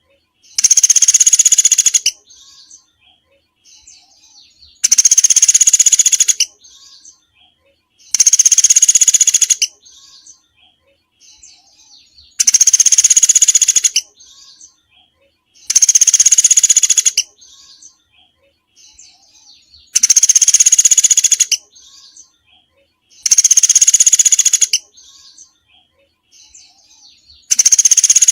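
Recorded small songbird song played as a masteran loop. A loud, dense, high trill lasting about a second and a half repeats roughly every three and a half seconds, with faint short chirps between the trills.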